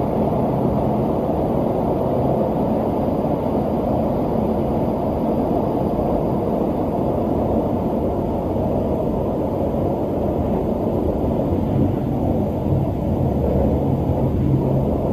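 Steady rumble of the MOB GoldenPass panoramic train running along the line, heard from inside the carriage.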